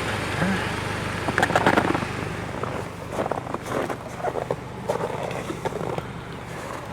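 Tank 300 SUV engine idling, a steady low hum heard near the exhaust, with irregular knocks and rustles of handling noise, loudest about a second and a half in.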